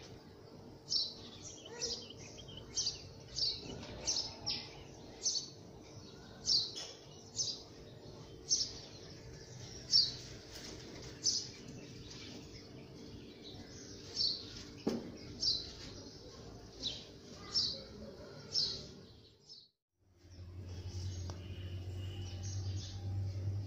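A small bird chirping over and over, short high chirps about one or two a second, over a faint steady hum. About twenty seconds in the chirping stops abruptly and gives way to a steady low hum.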